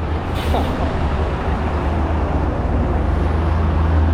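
Steady low rumble of a big truck's engine and passing highway traffic, with a short hiss about half a second in and the rumble growing louder near the end.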